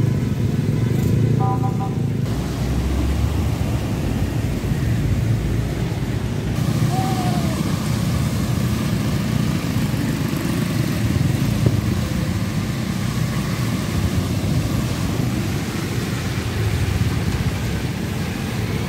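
Steady street traffic noise of motor vehicles running, with a few short beeps in the first two seconds.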